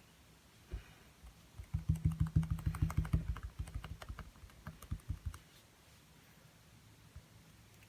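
A rapid run of light taps, about eight to ten a second, from painting on a small stretched canvas, with one single tap just before it. It is the tapping of acrylic painting: a brush dabbing at the canvas.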